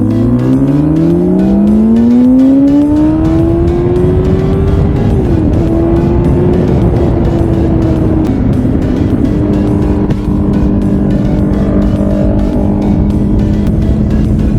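A motor vehicle accelerating, its pitch rising smoothly over the first few seconds and then holding steady, with background music.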